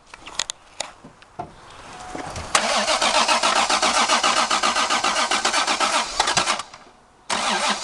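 Starter motor cranking the 1990 Toyota Supra's 7M-GE straight-six in an even, rapid pulse for about four seconds, stopping briefly, then cranking again near the end. A few light clicks come before the cranking.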